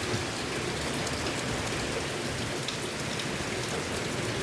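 Heavy rain falling steadily, pattering on surfaces, from a tropical storm.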